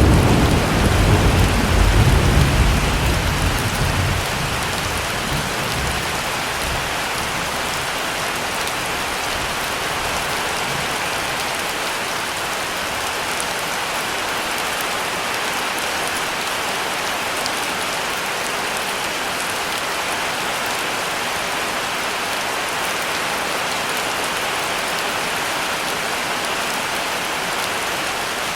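Heavy rain falling steadily. A low thunder rumble at the start dies away over the first few seconds.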